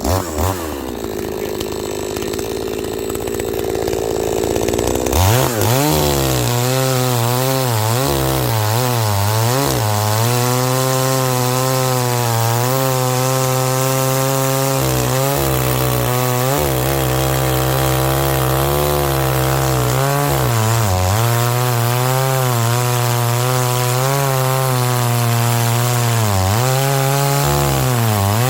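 Two-stroke gasoline chainsaw cutting firewood. After a softer, noisier first five seconds, the engine runs at high revs, its pitch dipping again and again as the chain bites into the wood and pulling back up between cuts.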